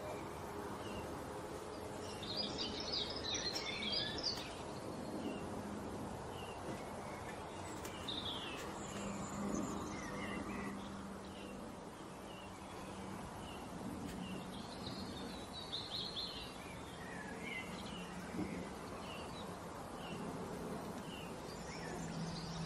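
Small birds chirping: several bursts of rapid high chirps with single chirps in between, over a faint steady low hum.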